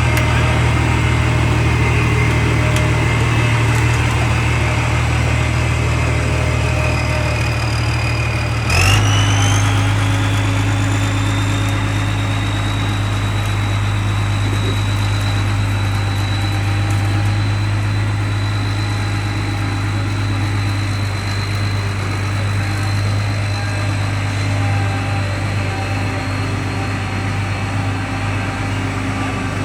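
Hino H07D diesel engine of a self-propelled forage harvester running steadily. About nine seconds in, the sound changes suddenly: a whine glides up and then holds at a higher pitch along with the engine hum.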